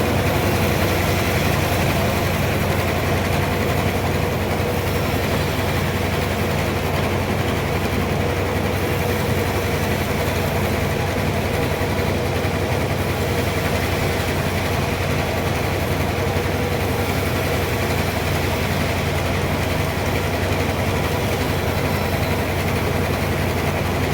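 Sawmill machinery running steadily: a constant motor drone with a strong low hum, unchanging in pitch and level.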